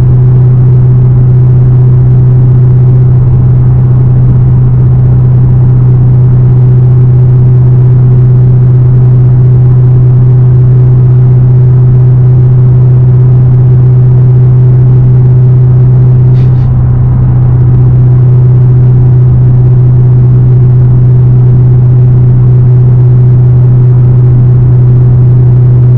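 Straight-piped Dodge Hellcat's supercharged 6.2-litre V8 exhaust droning loudly at a steady engine speed, as when cruising. About two-thirds of the way through there is a brief click and the drone dips slightly for a moment.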